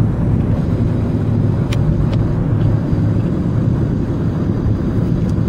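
Steady low engine rumble and road noise heard from inside a moving car, with a hot rod's exposed chrome V8 running alongside. Two short clicks come about two seconds in.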